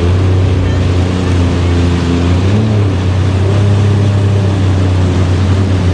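Jet ski engine running steadily while under way, with a strong low hum over the rush of water and wind.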